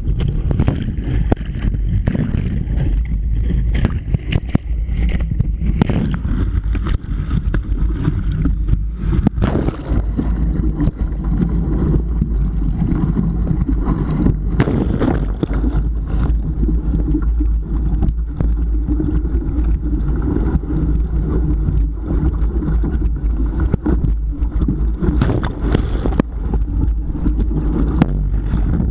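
Steady low rumble of wind buffeting the microphone over the rushing water of a river rapid, with irregular crackles and knocks throughout.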